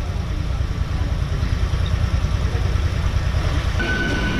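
Mumbai suburban electric local train running on the track, a steady low rumble. A steady high tone comes in near the end.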